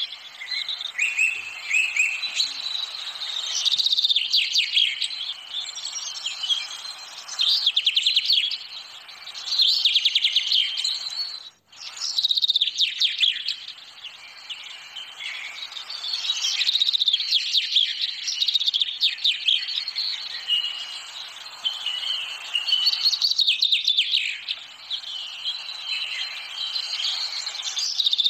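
Small birds chirping and trilling in a busy, overlapping chorus, coming in waves, with a momentary break about twelve seconds in.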